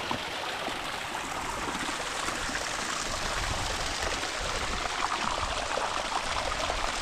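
Small waterfalls running steadily, water splashing and trickling.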